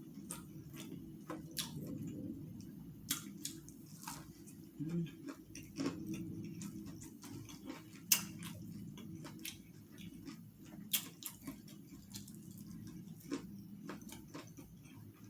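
Close-miked eating of fried chicken: crisp crunches and wet lip smacks as irregular sharp clicks, over a steady low hum.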